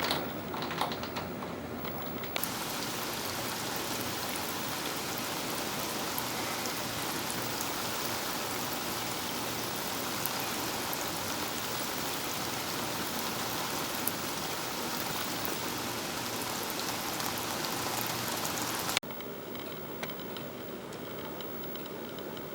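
Steady rain falling, a dense hiss with the patter of drops, which starts abruptly a couple of seconds in after some light tapping and cuts off sharply near the end to a quieter background.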